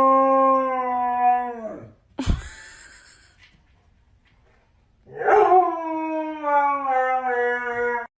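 A dog howling: two long held howls, the second starting higher and falling slowly in pitch, with a thump between them.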